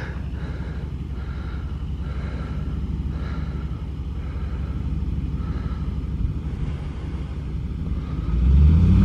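2008 Ford F-150 FX4's engine idling steadily while the truck waits on the trail, then rising louder near the end as the engine is given gas.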